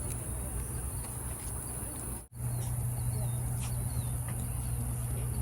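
Steady high-pitched chorus of night insects, with a low steady hum beneath it. Both break off for an instant about two seconds in, then resume.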